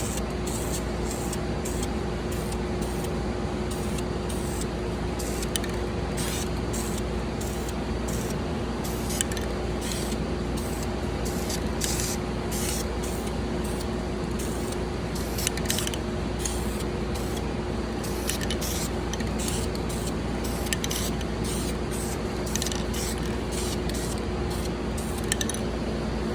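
Spray paint hissing onto wheels in many short, repeated bursts, laying a coat of finish paint over primer, over a steady low hum.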